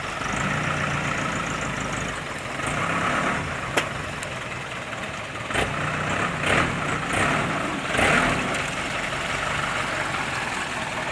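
Truck engine running steadily, with a sharp click about four seconds in and several short noisy surges in the middle.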